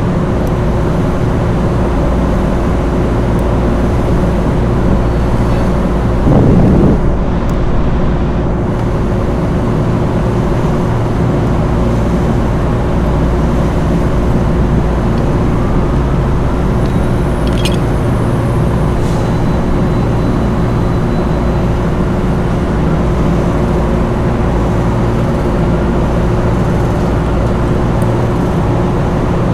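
Steady low mechanical drone with a constant hum, with a brief louder rush about six seconds in.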